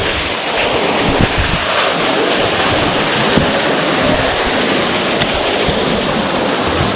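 A steady, loud rushing noise with uneven low buffeting throughout.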